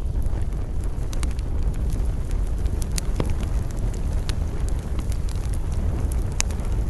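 Campfire crackling and popping, with sharp snaps scattered through, the loudest about three seconds in and again near the end, over a steady low rumble of the burning fire and wind.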